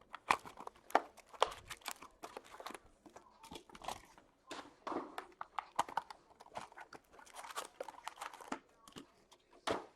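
Foil trading-card pack wrappers crinkling and tearing open, with cards being handled: a busy run of irregular sharp crackles and clicks.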